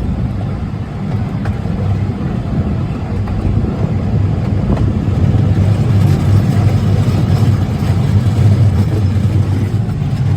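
Miniature ride train rumbling steadily along its track, heard from the rear car, a low running rumble that grows a little louder about halfway through.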